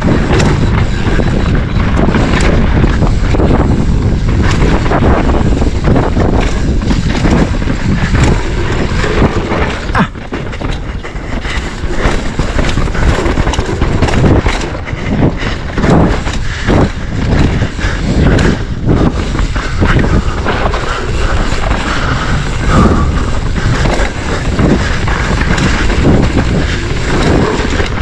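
Enduro mountain bike ridden fast down a dirt trail: a constant rush of wind on the helmet-camera microphone over tyre noise, with frequent knocks and rattles as the bike hits bumps.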